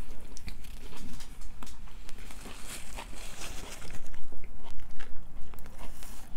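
Close-up mouth sounds of eating Subway sandwiches: biting into the bread and chewing, with many small irregular crunches and clicks, a bite about four seconds in.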